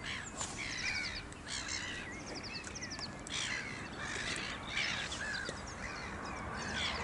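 Several wild birds calling: many short calls with quick downward sweeps, mixed with fast high trills, several times a second.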